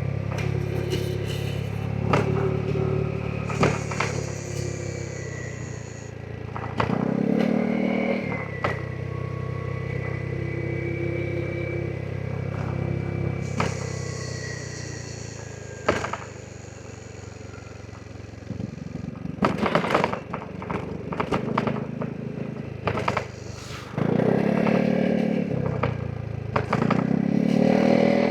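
Vespa GTS 300 scooter's single-cylinder four-stroke engine running while riding, steady for long stretches, with the revs rising several times under throttle and dropping back off. About two-thirds of the way through, a cluster of sharp knocks and clatter sits over a quieter engine note.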